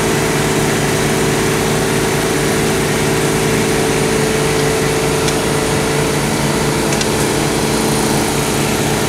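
Heavy construction machinery engine running steadily at night-time water-main work, a loud, even drone with a few faint clicks over it.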